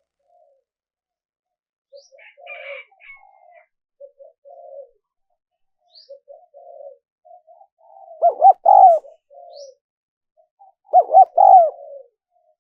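Spotted dove cooing: softer low coos through the first part, then two loud coo phrases about eight and eleven seconds in. A few faint higher chirps come in about two seconds in.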